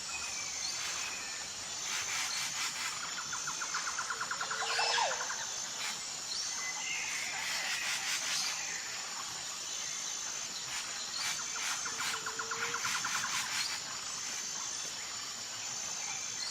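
Pet birds calling: short repeated chirps, a few sliding calls and two fast rattling trills, over a steady high-pitched whine.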